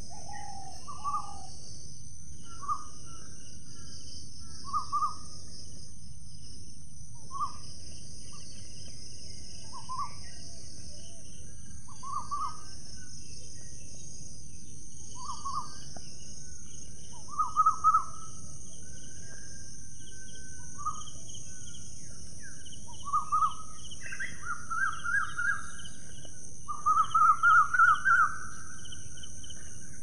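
A bird calling in short notes every two to three seconds, then in quicker runs of several notes near the end, over a steady high-pitched hiss.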